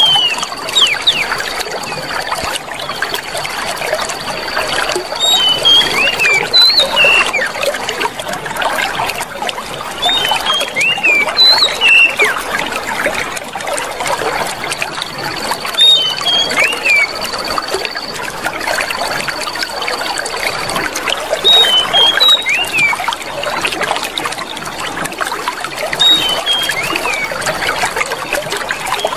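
Clear water trickling steadily. Every few seconds a bird gives short groups of quick rising and falling whistled chirps, and a thin high steady tone comes and goes in the background.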